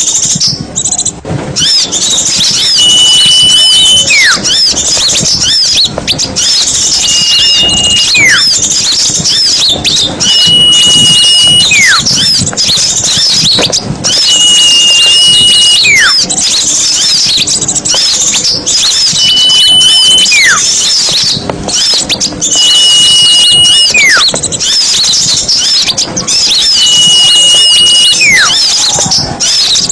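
Small-bird lure recording: a dense, busy chatter of many small songbirds chirping, with a clear whistle repeated about every four seconds, each a held high note followed by a quick falling slide.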